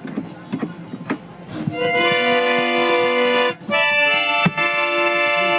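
Harmonium reeds sounding held chords, preceded by a second or two of clicks and knocks; the chord breaks off briefly about midway and a sharp click comes shortly after.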